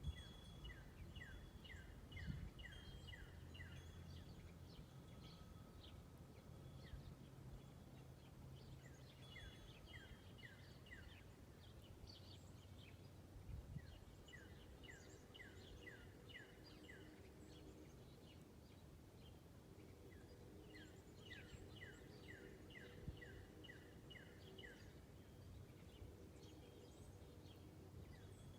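Faint backyard birdsong: a songbird sings runs of quick downslurred whistled notes, repeated every several seconds, with scattered higher chips from other small birds.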